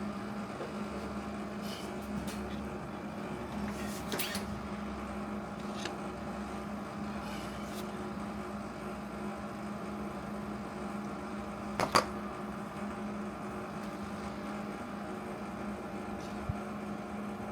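Steady hum of a switched-on MIG welder, its transformer and cooling fan running before the arc is struck, with a few light clicks and one sharper knock about twelve seconds in.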